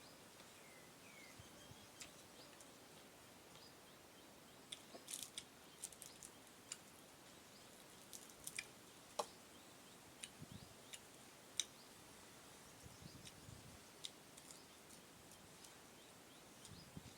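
Quiet eating sounds: scattered faint clicks and crunches of someone chewing papaya salad with sticky rice, over a low steady hiss.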